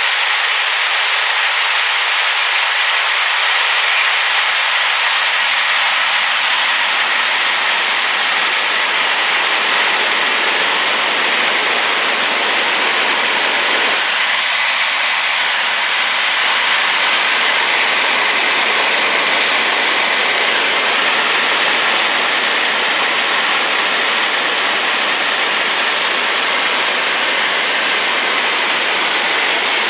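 Waterfall running at full force, a rain-swollen river pouring over the edge in a loud, steady rush of white noise.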